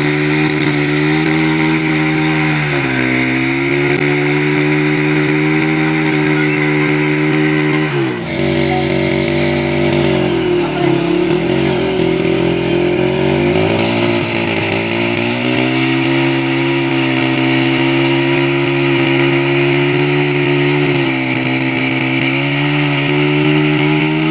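Motorcycle engine running as it drives a tubewell pump. Its speed dips briefly about three seconds in, sags and wavers again from about eight to fifteen seconds in, then picks back up and holds steady.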